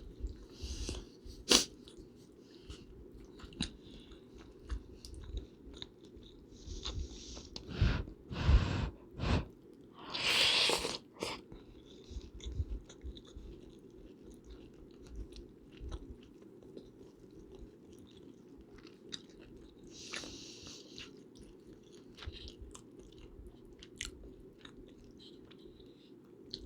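Close-miked chewing and biting of food, with wet mouth clicks and crackles, over a steady low hum of background noise. A few louder knocks come about a third of the way in, followed by a longer rushing sound.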